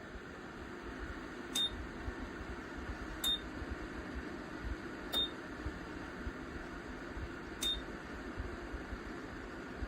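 Ceramic electric fan heater running with a steady rush of air, its controls beeping four times, each short high beep about two seconds apart.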